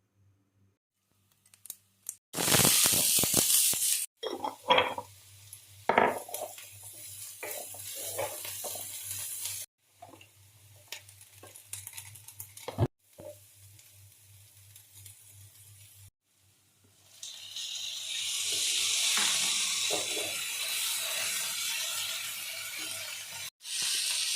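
Kitchen cooking sounds in a string of short cuts: utensils clinking and knocking against pots and dishes, then food sizzling in a hot pan for several seconds near the end.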